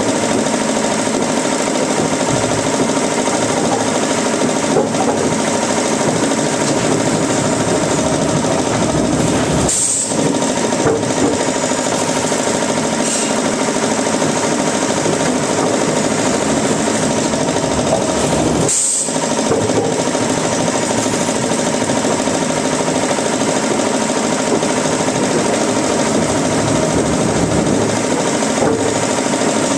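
Woodworking machinery running steadily with a loud, dense mechanical noise and a faint steady hum, broken briefly about ten and nineteen seconds in.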